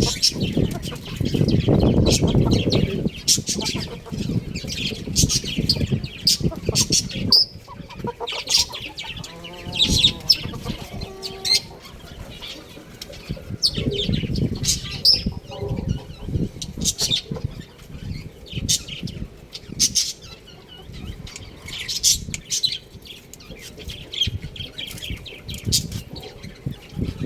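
Young chickens chirping: many short, high peeps, repeated irregularly, with a lower pitched call about ten seconds in. Low rumbling and scuffling noise runs underneath, loudest in the first few seconds.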